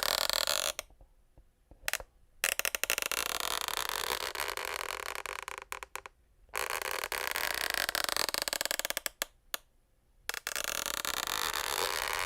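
Wooden parquet floorboards creaking: a series of long, wavering creaks with short pauses between them, and quick crackling ticks inside some of the creaks.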